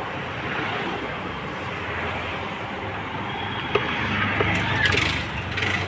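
Road traffic passing by: a steady wash of vehicle noise, with a few sharp clicks and a brief clatter in the last two seconds.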